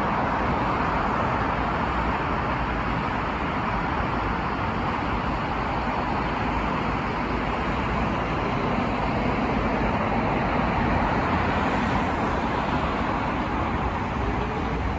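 Steady road traffic noise: a continuous rumble and hiss of passing vehicles with no distinct single events.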